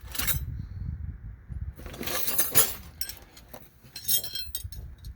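Metal wrenches clinking and rattling against each other as they are picked through, with irregular clicks and one sharp clink about two and a half seconds in.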